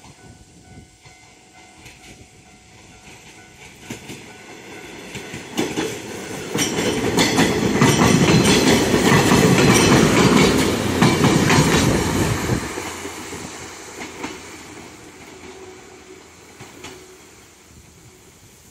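JR West 105 series electric train passing close by, its wheels clacking over rail joints. The sound builds, stays loud for about five seconds, drops off suddenly, then fades away.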